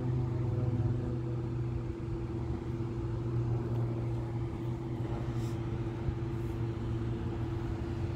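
Motor vehicle engine idling: a steady, even low hum.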